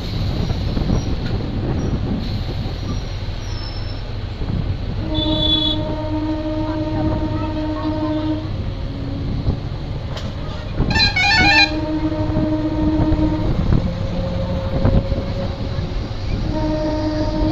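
MEMU local train rolling slowly into a halt with a steady low rumble. A horn sounds in three long blasts, each held for a second or more, and a shorter, harsher, higher horn comes in about two thirds of the way through.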